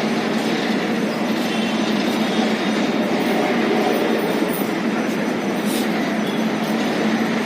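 Double-decker express train running past on the rails, a steady rumble of passing coaches and wheels on track.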